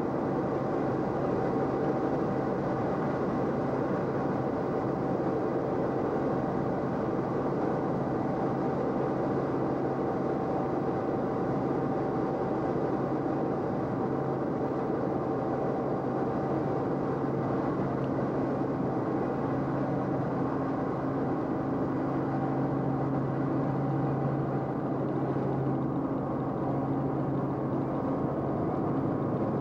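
Steady aircraft cabin noise: an unbroken engine drone with a few held tones.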